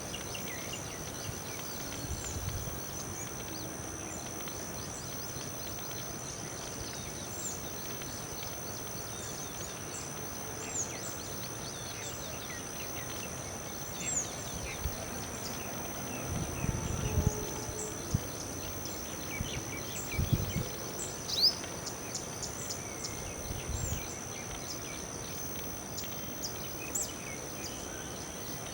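Outdoor ambience: a steady high-pitched drone, with many short, high bird chirps scattered over it. A few low thumps and rumbles come in the middle stretch.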